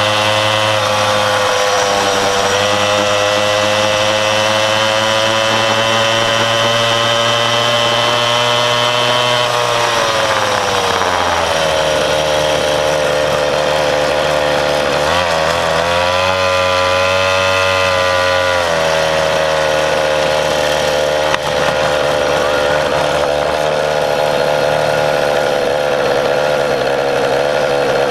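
Mini bike's small engine running steadily under throttle. About ten seconds in its speed drops, then it rises and falls a few times before settling again.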